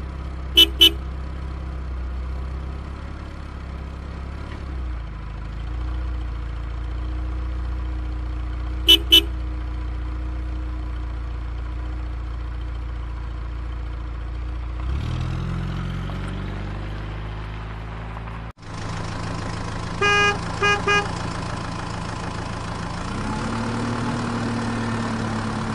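Steady low car-engine hum with a short double honk of a car horn, twice. An abrupt switch about two-thirds of the way in changes it to a different engine drone, with a quick run of horn beeps soon after.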